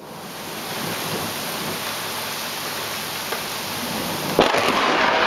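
Steady rain falling in a thunderstorm, then a little over four seconds in a sudden sharp crack of close thunder from a nearby lightning strike, followed by a louder sustained rumble.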